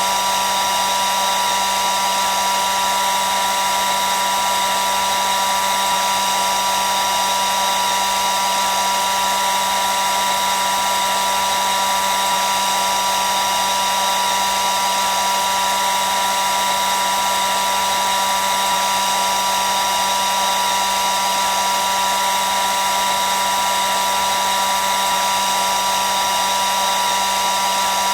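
Hair dryer running steadily: a constant rush of air with a steady whine from its motor and fan, unchanging throughout.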